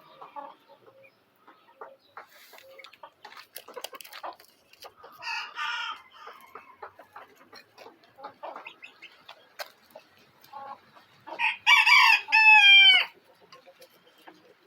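Shamo rooster crowing once, loudly, about eleven seconds in, a crow of about a second and a half ending in a long falling note. A shorter, quieter call comes about five seconds in, with scattered small clicks and taps throughout.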